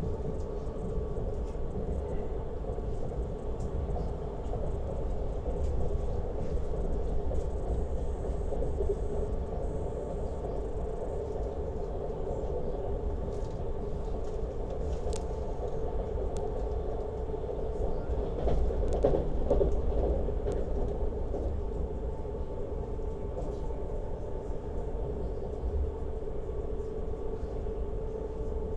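Lastochka (Siemens Desiro RUS) electric train running on the rails: a steady rumble of wheels on track with a steady hum, a few light clicks, and a brief louder stretch about two-thirds of the way through.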